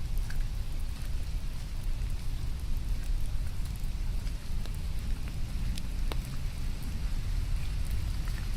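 Steady rain with scattered sharp drips, over a continuous low rumble.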